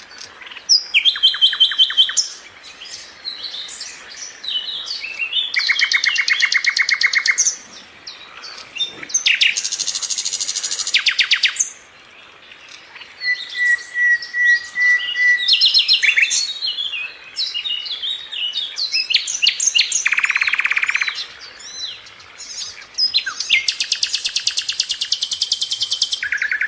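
Sikatan londo flycatcher singing: a string of fast, rattling trilled phrases, each a second or two long, broken by short pauses. About halfway through there is a thin, even whistle.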